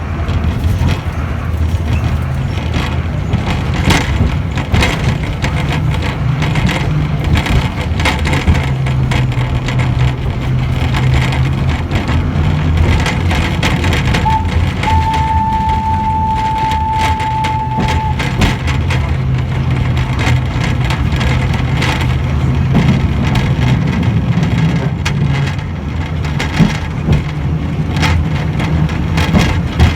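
Inside a wooden coach of the Botchan Ressha, a replica steam train pulled by a diesel locomotive: the diesel engine's steady low drone, with frequent creaks, clicks and knocks from the wooden carriage. About halfway through, a steady high tone sounds for about three seconds.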